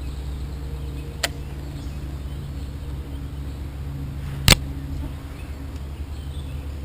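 A steady low engine-like hum, with two sharp knocks about three seconds apart, the second louder.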